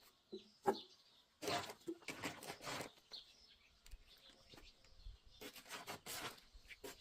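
Small birds chirping in the background, with two stretches of louder rustling, scraping noise, the first about a second and a half in and the second near the end, and a sharp click just before.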